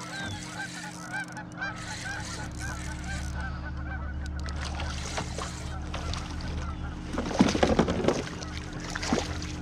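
Birds calling over and over in quick arched calls for the first few seconds. Then, about seven seconds in, a loud burst of splashing as a hooked walleye thrashes at the surface beside the kayak.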